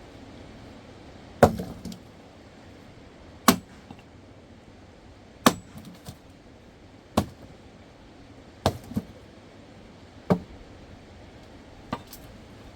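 A series of sharp knocks, like a tool striking something hard: about eight blows, roughly one every one and a half to two seconds, with two coming close together near the middle and the last one fainter.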